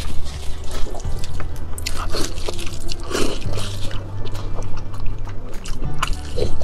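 Wet biting, sucking and chewing on sauce-coated large intestines, with many short wet mouth clicks, over background music with a low bass line.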